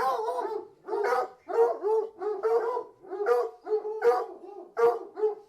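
Pack of hunting hounds barking and baying, several voices overlapping, about two calls a second. The calls start suddenly after near silence.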